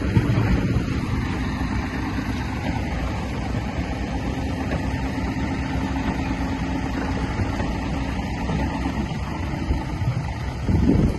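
Heavy diesel engine of earthmoving machinery running steadily, with a brief louder surge near the end.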